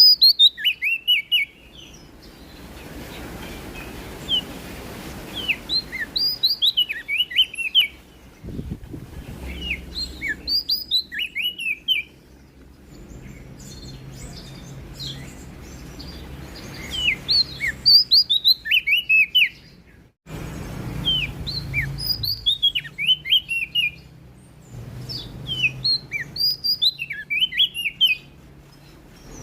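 Prenjak daun leaf warbler singing: repeated short phrases of quick, high, falling chirps, each phrase a second or two long, with pauses of a few seconds between them.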